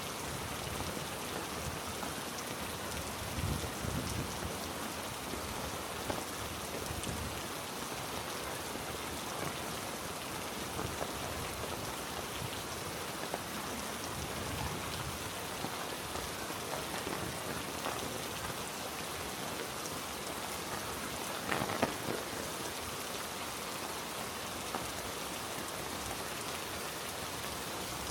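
Heavy rain falling steadily, a dense hiss of drops. A few soft thumps sound a few seconds in, and a single louder knock comes about 22 seconds in.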